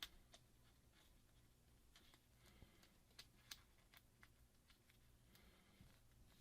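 Near silence: room tone with a few faint, sharp clicks and ticks from small phone parts and tools being handled. The loudest click comes right at the start, and a cluster follows around three seconds in.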